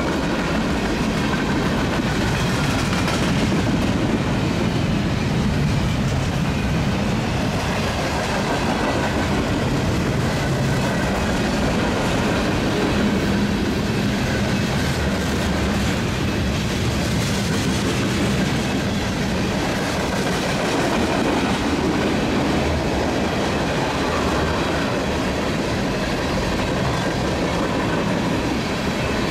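Freight cars of a long mixed freight train rolling past at steady speed: a continuous rumble and clatter of steel wheels on the rails, with faint high wheel squeal at times.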